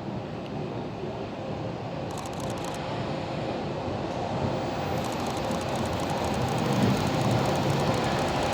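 Steam train approaching on the rails: a steady running noise that grows gradually louder.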